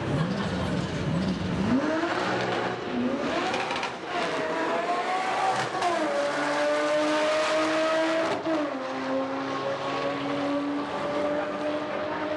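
Car engine revving in quick blips, then launching under full throttle on a drag run. Its pitch climbs and drops sharply at two upshifts, about six and eight and a half seconds in, and holds high to the end.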